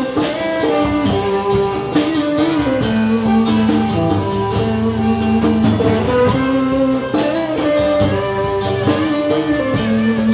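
Live band playing a slow rock song between sung lines: guitar notes ringing over bass and a drum kit keeping time.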